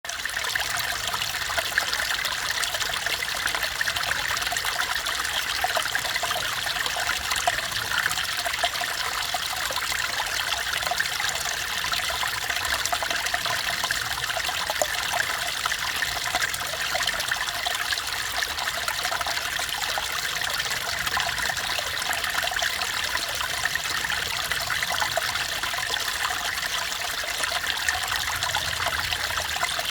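Mountain stream water trickling and babbling over rocks, a steady, even rush.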